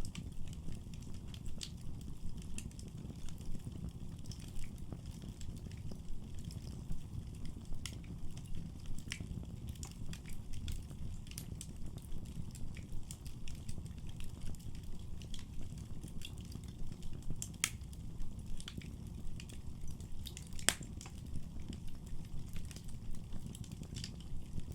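Wood fire burning in a fireplace: a steady low rumble of flames with scattered sharp crackles and pops, a louder pop a little over two-thirds through and another soon after.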